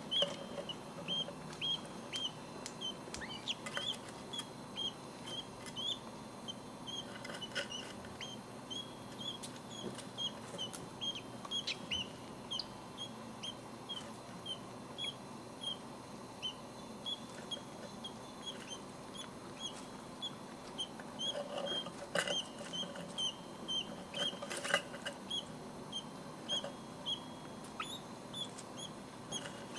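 Budgerigar chicks peeping: short high chirps repeated about two or three times a second without pause, with a few soft knocks in between.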